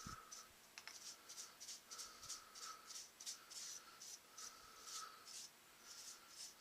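Faint, rhythmic scratching strokes, about two to three a second, like something being rubbed or scraped back and forth by hand.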